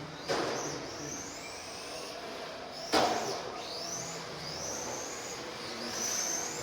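Electric RC race cars running laps, their motors giving high-pitched whines that rise in pitch as the cars accelerate and pass. Two sharp knocks stand out, one just after the start and a louder one about three seconds in.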